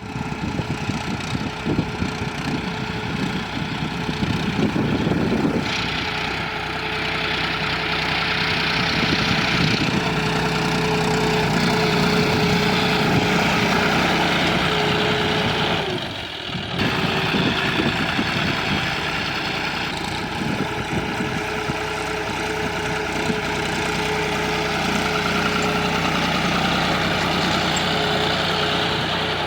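John Deere 5045 tractor's diesel engine running steadily, with a steady whine over it. The sound dips briefly about sixteen seconds in, then carries on.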